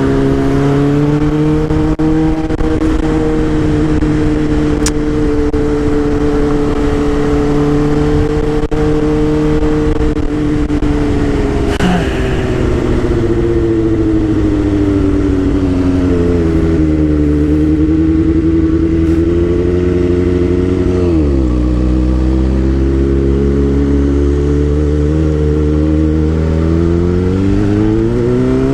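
Suzuki GSX-R600 K5's inline-four engine running under way, its pitch holding steady at first, sagging around the middle and then dropping sharply before climbing back up as the revs rise again.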